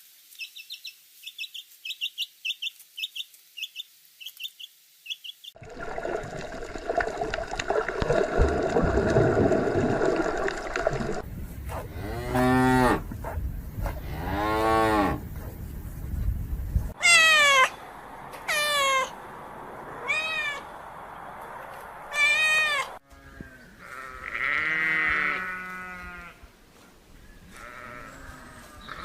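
Farm animals calling in a string of separate clips: a quick run of high chirps, then a series of long pitched calls that rise and fall, including cow-like moos and higher bleating calls.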